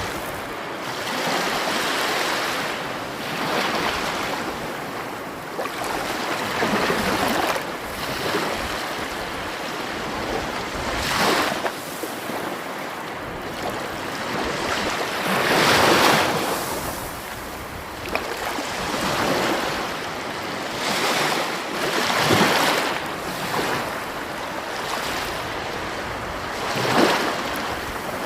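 Sea waves breaking and washing on a shore, a steady rush that swells and ebbs every few seconds. The biggest breaks come about four times, roughly five seconds apart.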